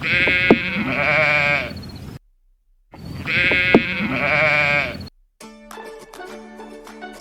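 Goat bleating: one long, wavering bleat heard twice, each about two seconds with a short silence between. Light plucked-string background music follows in the last couple of seconds.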